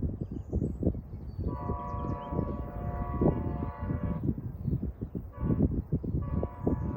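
Multi-chime air horn of a VIA Rail Siemens Charger locomotive sounding a long blast, then a second blast starting near the end, over the low rumble and knocking of the passing train.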